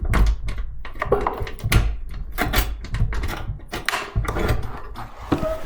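Small safe being worked open by hand: a run of quick metallic clicks, rattles and knocks from its handle, latch and door.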